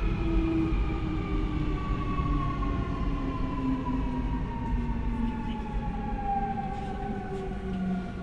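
Keio 1000 series (3rd batch) electric train heard from inside the car: the VVVF inverter and traction motor whine, several tones together falling slowly and steadily in pitch as the train slows for a station, over the steady low rumble of the wheels on the rails.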